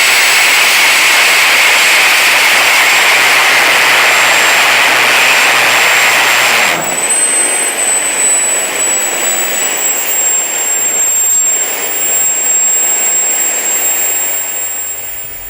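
Homemade turbocharger-based gas turbine jet engine running loudly with a high-pitched whine. About seven seconds in the roar drops suddenly to a lower level, while the whine goes on and slowly falls in pitch, fading near the end.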